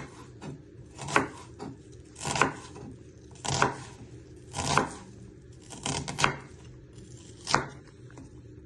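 Kitchen knife chopping an onion on a chopping board: single sharp strokes about a second apart, seven in all.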